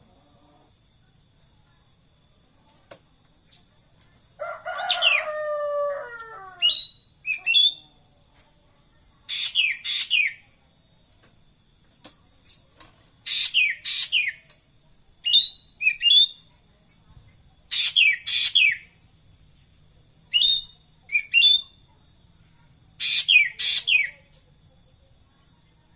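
Calls of an ekek keling bird: short phrases of steeply falling notes, repeated every two to three seconds after a quiet first four seconds.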